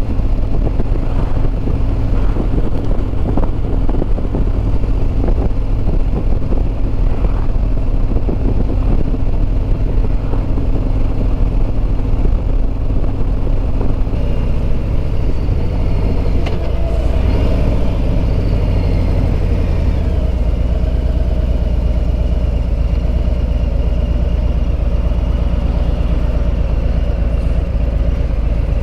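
Harley-Davidson Road Glide Limited's Milwaukee-Eight 114 V-twin running steadily on the road, with wind noise over the microphone. About halfway through, the engine note changes and drops lower.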